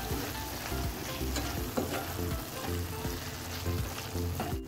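Beef keema sizzling in a karahi as it is stirred and turned with a wooden spatula, with light scrapes of the spatula, as the dry spices are mixed in. There is a very brief dropout near the end.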